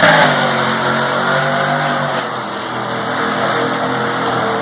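Chevrolet Silverado and Dodge pickup trucks drag racing, their engines under hard acceleration down the strip. The engine sound is loudest at the start, then its pitch drops a little and it carries on steadily as the trucks pull away.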